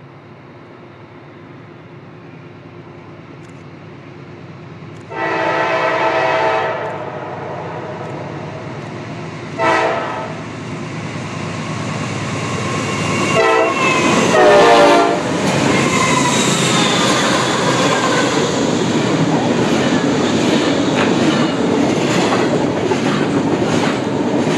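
A train approaching and passing: its locomotive horn sounds a chord of several tones, one long blast about five seconds in, then a short blast and two more blasts around the middle. After that the loud rumble and rattle of wheels on rail carries on as the cars go by.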